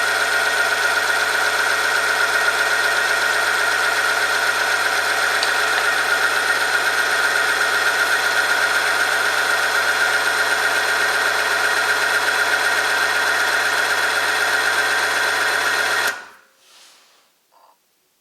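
Oil-film strength test machine running steadily, its motor and loaded rotating shaft giving a strong whine with a low hum beneath, then stopping suddenly about 16 seconds in: the end of the test run. A few faint ticks follow near the end.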